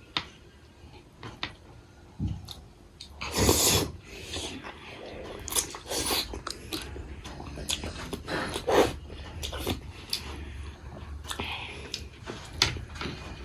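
A person chewing and biting food close to the microphone: wet clicks and smacks, with a louder crunchy bite about three and a half seconds in.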